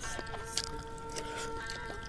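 A person chewing a mouthful of roasted chicken close to the microphone, with soft wet squishing and small clicks of biting, over faint background music of held notes.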